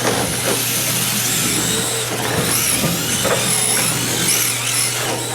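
Electric RC drift cars running on the track, among them a Yokomo YD-2S. Their motors whine high, the pitch rising and falling in short swells as the throttle is worked, over a steady low hum.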